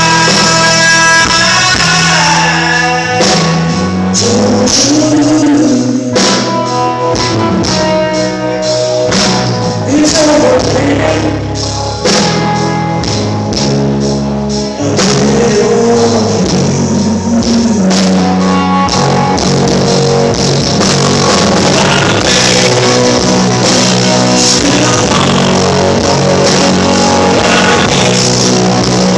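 Live blues-rock band playing an instrumental break between sung verses: a lead line with pitch bends over a steady bass and drums. Recorded loud on a phone.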